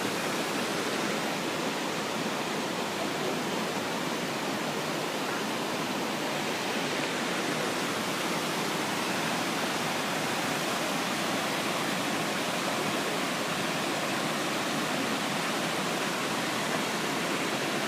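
Pistyll Rhaeadr waterfall: loud, steady rushing of falling water, unchanging throughout.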